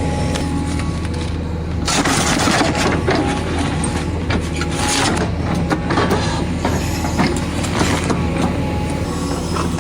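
Kubota excavator's engine running steadily under load while its stump-cutting attachment works into a tree stump, with dense cracking and crackling of wood starting about two seconds in.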